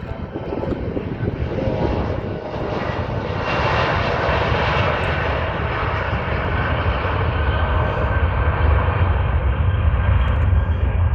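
Bombardier CRJ-700 regional jet's twin turbofan engines at takeoff power: a whine with steady tones over a rushing roar that swells about three seconds in, and a deep rumble that grows toward the end.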